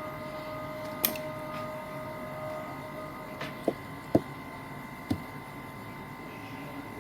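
About five short, sharp clicks or taps, scattered over a few seconds, over a steady background hum with a faint high tone.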